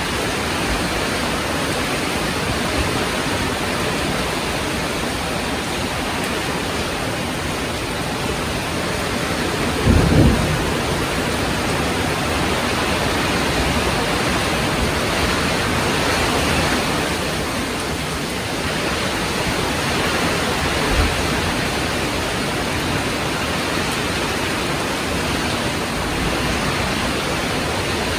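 Heavy rain falling steadily, with one short, low boom of thunder about a third of the way through and a fainter low knock later.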